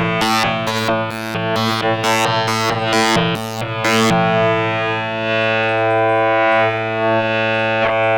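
Make Noise Eurorack modular synthesizer drone from slightly detuned oscillators modulating one another. It pulses with bright spikes about two and a half times a second, the rhythm of their drifting phase. About four seconds in it smooths into a steady, slowly shifting buzzy tone.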